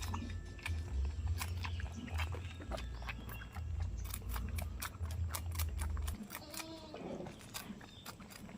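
A goat bleats once, a wavering call about two-thirds of the way through, among scattered short clicks and rustles. A low rumble runs underneath and stops abruptly about six seconds in.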